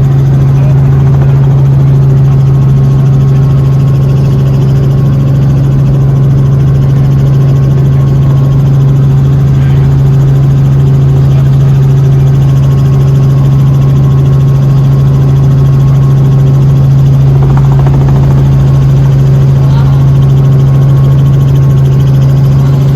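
Helicopter running, a loud steady low hum that does not change.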